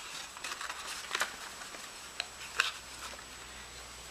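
Paper being handled and rustled, with a few light clicks and taps; the sharpest click comes about two and a half seconds in.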